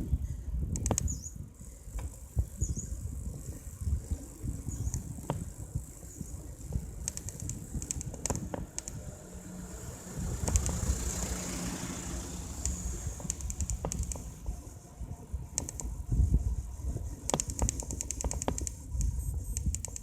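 A mountain bike being ridden on a road: wind rumbling on the microphone with scattered clicks and rattles from the bike. A vehicle passes, swelling and fading about halfway through.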